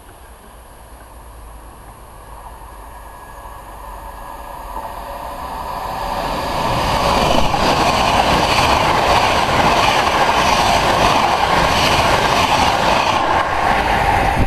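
Express passenger train approaching, growing steadily louder over several seconds, then running past at speed with a steady rush of wheel and rail noise.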